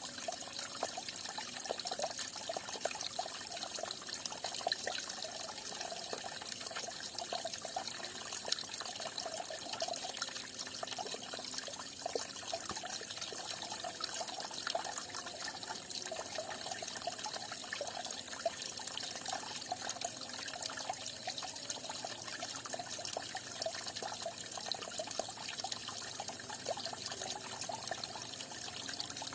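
Falling water splashing and trickling steadily, a constant bright hiss with small bubbling splashes through it.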